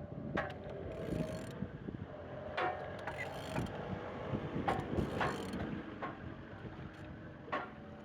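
Renault K4M 1.6-litre 16-valve petrol engine being turned over by hand with a wrench on the crankshaft. Ratcheting and clicking with scattered knocks as the engine rotates, and it turns freely.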